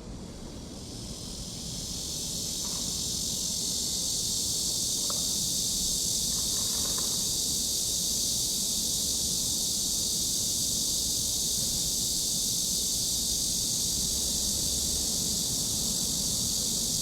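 Steady high-pitched hiss that swells in over the first three seconds and then holds level.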